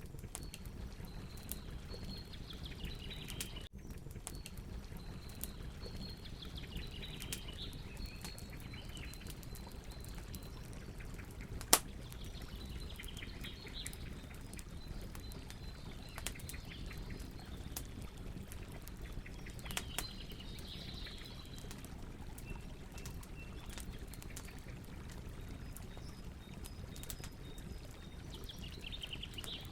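Campfire burning with a steady low rush and scattered crackles, and one loud sharp pop about twelve seconds in. Faint high chirping comes and goes in the background.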